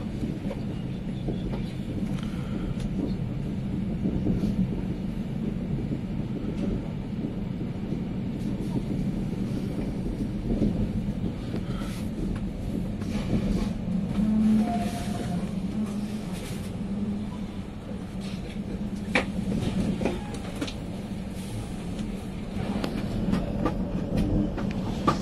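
Steady low rumble of a high-speed electric train running, heard from aboard, with the occasional sharp click from the wheels and track.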